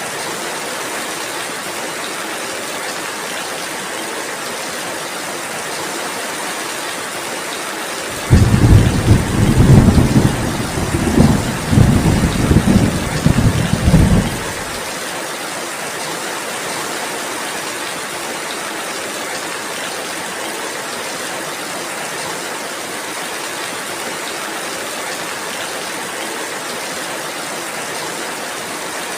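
Steady rainfall, with a loud, low rumble of thunder starting suddenly about eight seconds in, rolling in several swells for about six seconds and then fading back under the rain.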